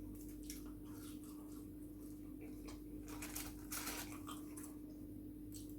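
Faint eating sounds: a few soft, brief chewing and mouth noises, clustered about three to four seconds in, over a steady low hum.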